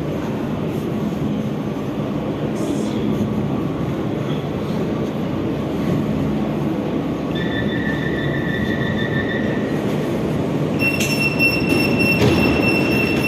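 Metro train running through the station with a steady rumble; a brief high squeal comes about seven seconds in, and a stronger high-pitched wheel or brake squeal sets in about eleven seconds in and holds.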